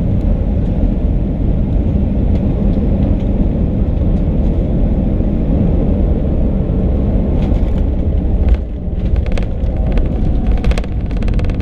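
Airbus A319 cabin noise from a window seat: a loud, steady engine and airflow rumble. About eight and a half seconds in there is a sudden jolt, then a quick run of rattling clicks.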